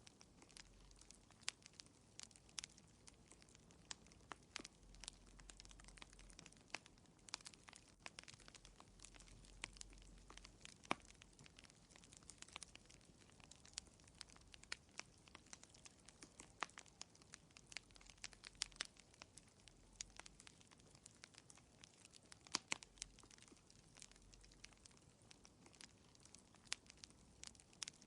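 Wood fire crackling in a fireplace, quiet: irregular sharp pops and snaps, several a second at times, over a faint steady hiss.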